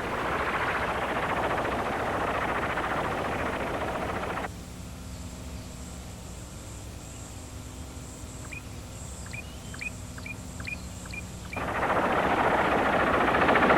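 Helicopter hovering: a loud, steady rush of noise that cuts off abruptly about four seconds in. A quieter stretch follows with a run of short, high bird chirps, and then the loud steady noise returns suddenly near the end.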